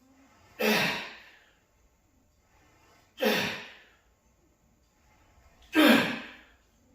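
Three forceful breaths out, one with each repetition, about two and a half seconds apart, each fading away: a lifter straining through a set of heavy cable tricep extensions.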